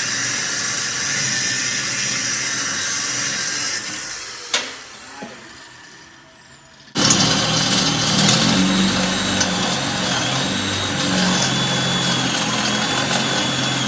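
Power tool grinding out a small metal fitting to enlarge its hole, in two runs: the first cuts off a few seconds in and winds down with a falling whine, then the tool starts again about seven seconds in and runs steadily with a high whine until near the end.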